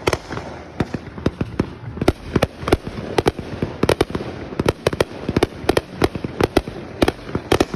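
Fireworks going off at close range: a rapid, irregular barrage of sharp bangs and crackles, several a second, loud enough to be felt in the chest.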